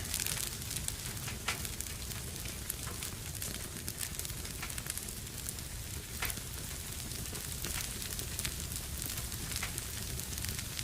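Wood fire burning in a fireplace, a steady hiss with frequent sharp crackles and pops, a few louder snaps among them.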